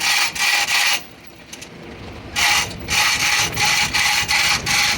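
Rhythmic scraping strokes of a hand tool on metal, about two a second, with a pause of just over a second near the start.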